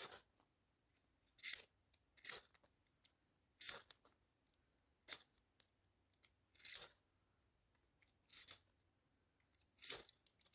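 Ferro rod fire starter struck again and again, a short harsh scrape every second or two, about eight strokes, throwing sparks at a pile of dryer lint that has not yet caught.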